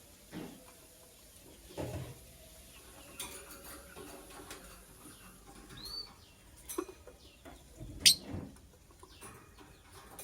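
Lovebird moving about its cage with scattered knocks and thumps, and one short chirp about six seconds in.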